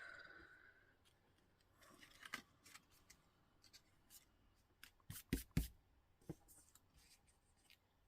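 Faint rustles and light taps of paper and card pieces being handled and positioned on a craft table, with two louder knocks about five and a half seconds in.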